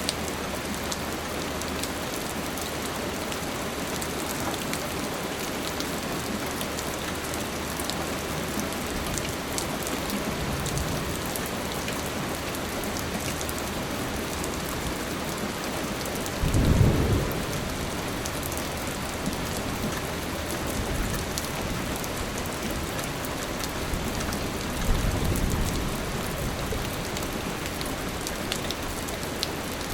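Steady rain falling and pattering on surfaces, with a few brief low rumbles; the loudest comes about halfway through and a smaller one near the end.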